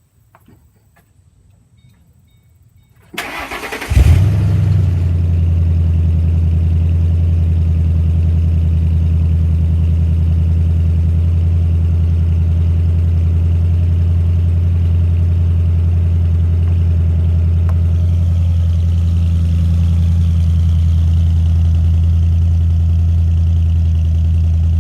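Car engine with an MBRP axle-back exhaust being started: about a second of starter cranking, a short loud flare as it catches about four seconds in, then a steady idle through the exhaust.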